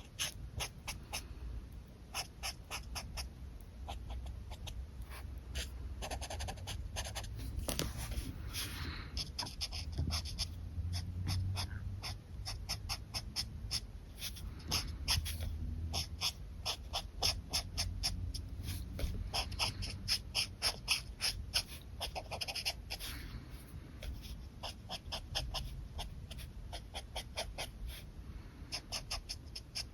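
Alcohol marker nib stroking across paper in quick, repeated flicks, several a second in runs, with one longer drawn stroke about eight seconds in.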